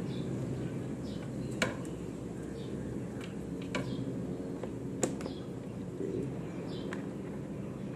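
A small bird chirping over and over, a short falling chirp about every second and a half, over a steady low background hum. A few sharp clicks from the wiring being handled, the loudest about one and a half and five seconds in.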